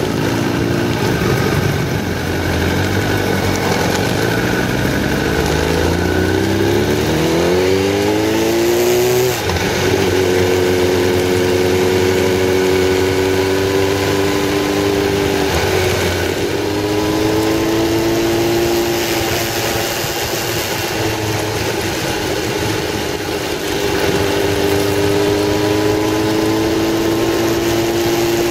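Motorcycle engine heard from on board the bike: it pulls away with its pitch rising, shifts up with a sudden drop in pitch about nine seconds in and again about sixteen seconds in, then runs steadily at cruising speed, with constant wind noise.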